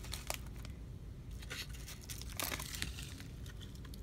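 Short, dry rustling and crinkling scrapes, several separate ones, as a moss- and raffia-covered craft birdhouse is handled and turned.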